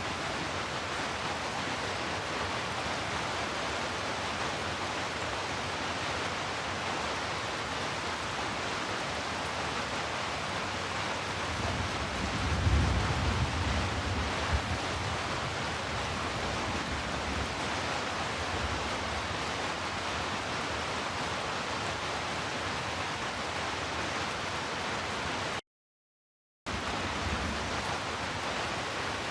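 Steady heavy rain, an even rushing hiss of rainfall. A low rumble swells up about twelve seconds in and fades over a few seconds, and near the end the sound cuts out completely for about a second before the rain resumes.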